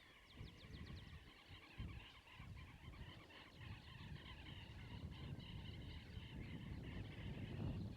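Faint chorus of wild birds calling from around the lake, with a quick run of about eight descending chirps near the start. A low rumble swells and falls underneath, loudest near the end.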